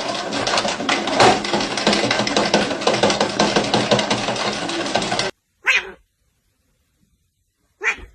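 A dog barking repeatedly in quick succession for about five seconds, then two short sounds with silence between them.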